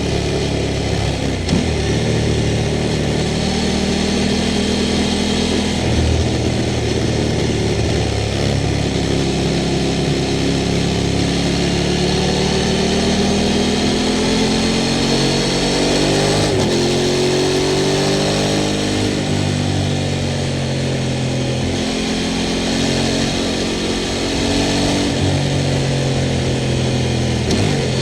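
Sport motorcycle engine under way, the revs rising and falling as it accelerates and slows through the gears, with a long climb in pitch to about two-thirds of the way through and a drop after it.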